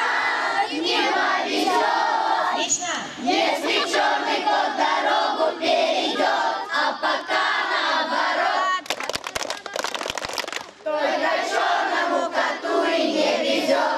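A large group of children singing and chanting a squad song together, loudly. About nine seconds in the voices drop out for some two seconds, leaving a run of sharp clicks, then the group singing comes back.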